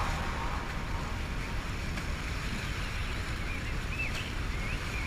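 Wind buffeting the microphone over water lapping around a kayak: a steady low rumble and hiss. A few faint high chirps come in the second half.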